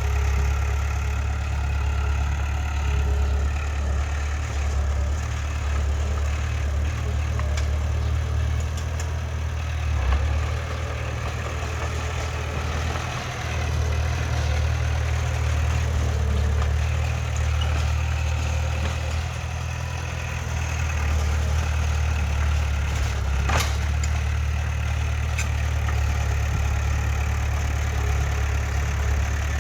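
Heavy diesel engine of earthmoving machinery running steadily at a low rumble, with one sharp knock about three-quarters of the way through.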